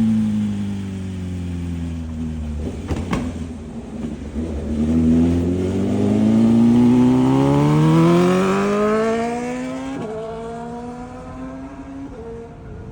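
BMW S1000RR's inline-four engine through a titanium full exhaust: the revs fall off, a couple of sharp clicks sound about three seconds in, then the engine pulls up through the revs in one long rising note, loudest about seven to eight seconds in. After a click at about ten seconds it settles to a steadier, lower note that fades.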